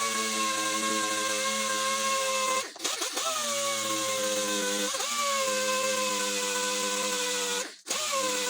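Handheld electric sanding tool running, sanding down a dented spot on a car's steel body panel to prepare it for stud-welder dent pulling. It runs at a steady pitch, dropping off and spinning back up three times.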